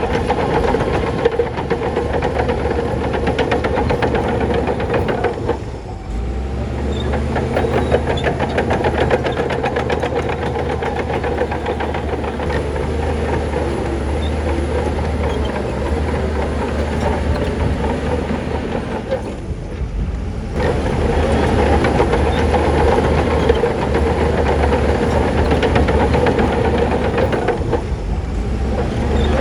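Shantui crawler bulldozer's diesel engine running under steady work, with the clatter of its steel tracks. The sound dips briefly twice, about 6 and 20 seconds in.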